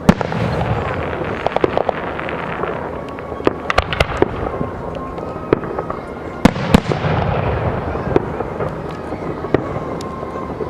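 Aerial fireworks show: a rapid series of sharp bangs over continuous rumbling and crackling, loudest right at the start and again about two thirds of the way through.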